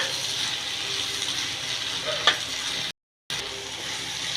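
Spiced meat sizzling steadily as it fries in a pan, with a utensil clicking against the pan twice as it is stirred. The sound cuts out completely for a moment about three seconds in.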